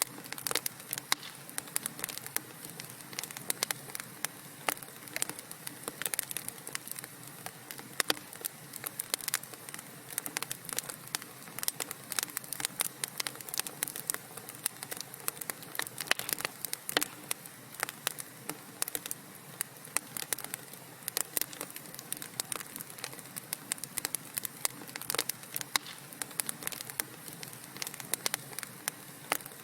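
Wood fire burning in a fireplace: dense, irregular crackles and pops over a low steady hiss.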